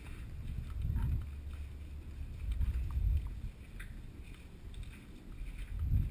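Low rumble of movement and handling noise on a body-worn camera's microphone, with a few faint clicks.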